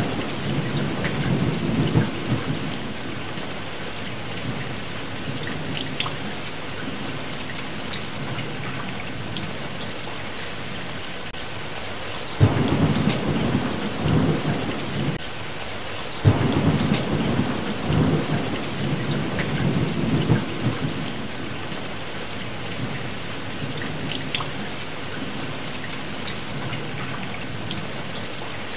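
Steady heavy rain with thunder: a rumble dies away in the first couple of seconds, then two rolls of thunder break in suddenly about halfway through, a few seconds apart, each rumbling on for several seconds.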